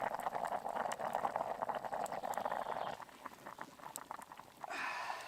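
Pot of lamb stew at a rolling boil over campfire coals, lid off to reduce: dense bubbling and popping that fades about three seconds in. A short burst of noise comes near the end.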